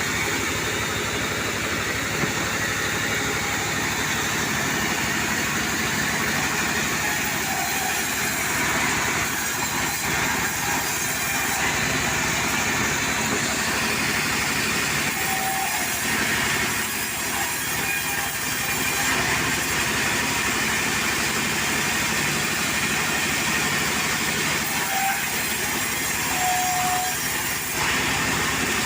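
Portable sawmill running steadily, its engine and blade making a continuous mechanical din.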